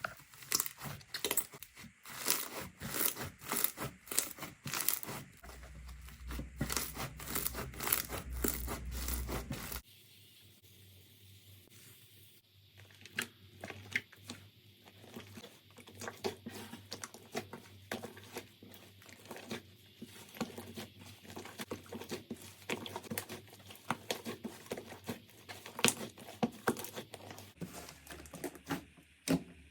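Slime being pressed, poked and stretched by hand, making quick runs of sticky clicks, crackles and pops. The sound changes abruptly about ten seconds in, going quieter and sparser, then grows busier again near the end.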